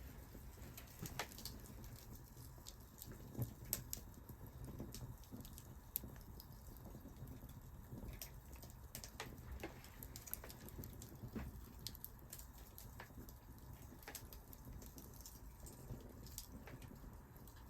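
Wood fire crackling: irregular sharp snaps and pops over a low, steady rumble, with the loudest pops about three and a half and six seconds in.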